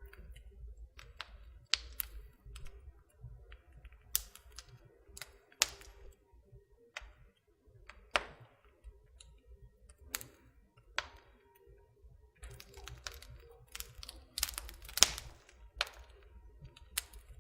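Wood fire in a fireplace crackling: irregular sharp pops and snaps at uneven intervals over a low steady rumble, with a cluster of louder snaps about three quarters of the way through.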